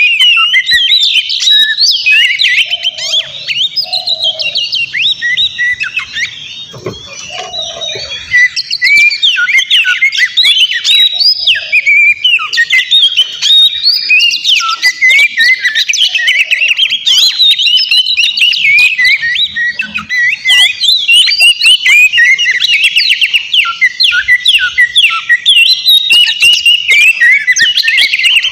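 Oriental magpie-robin (kacer) singing non-stop: a fast, varied stream of loud whistles, chirps and rapid trills, briefly softer about six to eight seconds in.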